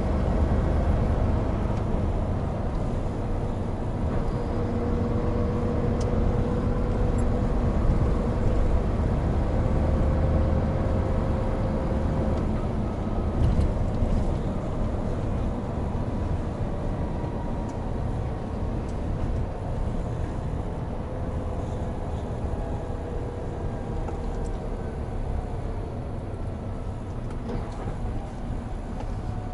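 Hino Profia (Hino 700) heavy truck driving: a steady low diesel rumble and road noise, with engine tones that drift slowly in pitch and ease off a little in the second half.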